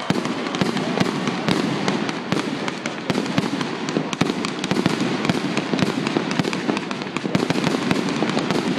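Aerial fireworks going off in a continuous barrage: many rapid bangs and crackles from bursting shells, overlapping with no pause.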